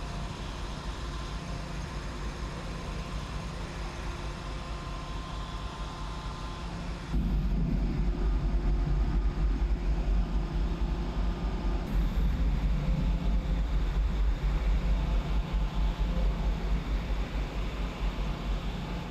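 Diesel truck engine running, its low rumble becoming clearly louder and heavier about seven seconds in.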